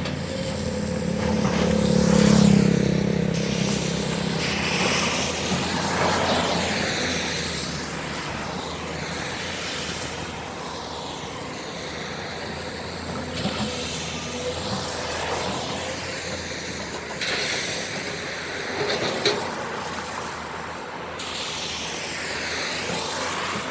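Tractor engine running steadily while other vehicles pass by on the road, with a few short knocks.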